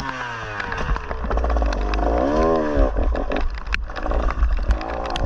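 Dirt bike engine revving up and down as it is ridden: the pitch falls, climbs and drops again around the middle, and rises once more near the end, with scattered clicks and knocks over a steady low rumble.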